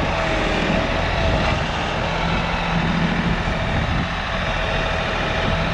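Tractor engine running steadily under work.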